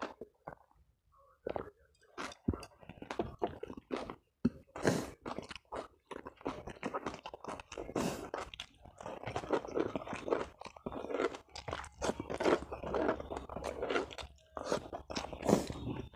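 Close-miked eating sounds: chewing, lip smacks and sucking chili sauce off the fingers. There is a short quiet pause near the start.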